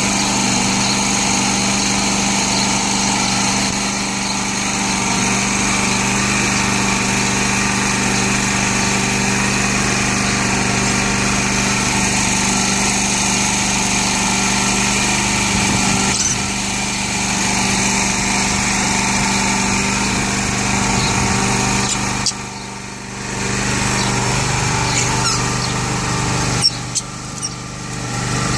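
Steady machine hum with a few brief, high chirps and squeaks from pet lovebirds. The hum dips for about a second two-thirds of the way through, and its lowest tone stops soon after.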